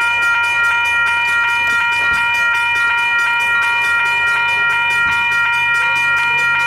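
Railway warning bell ringing continuously with rapid, evenly spaced strikes, as a train arrives at a station, with a low train rumble coming in about four seconds in.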